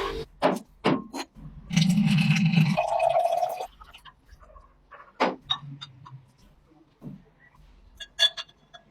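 Hard objects clinking and knocking in a series of short separate hits, with a steady hum mixed with noise for about two seconds near the start.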